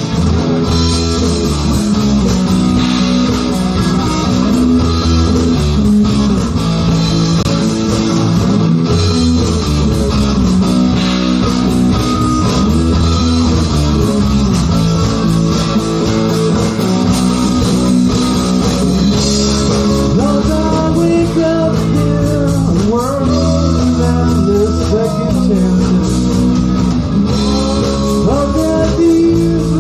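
A live rock band playing a long instrumental passage: electric guitar over a steady bass guitar line, with notes bending up and down in the guitar part from a little past the middle.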